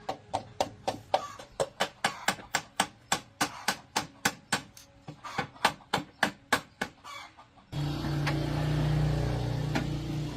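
A quick, regular run of sharp knocks, about three or four a second, like hammer or tapping blows on a workpiece. The knocks stop, and about eight seconds in a louder steady mechanical hum starts.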